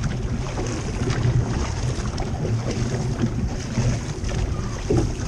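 Six-person outrigger canoe under paddle: water rushing along the hull and paddles pulling through the water, with wind buffeting the microphone.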